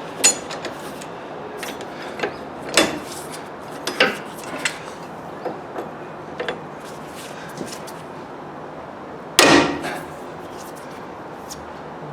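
Metal tools and suspension parts clinking and knocking as they are handled, a dozen or so separate clicks, with one louder clatter about nine seconds in.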